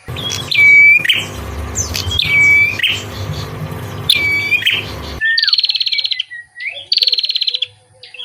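Songbird calls. First comes a noisy recording in which one call swoops down and levels off, three times about two seconds apart. About five seconds in, a cut leads to a cleaner recording of a fast, buzzy trill repeated in short bursts.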